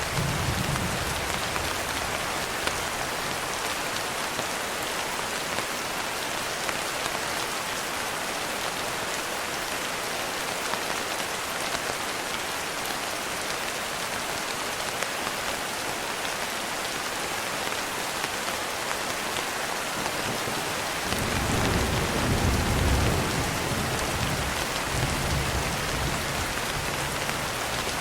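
Steady rain falling. About three-quarters of the way through, a low rumble of distant thunder swells up and slowly fades.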